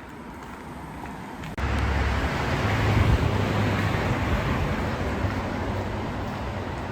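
Street traffic: a motor vehicle's engine running close by over steady road noise, starting abruptly about one and a half seconds in after quieter outdoor background.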